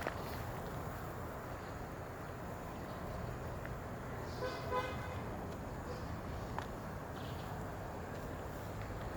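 Steady outdoor background noise, with one short horn toot about halfway through.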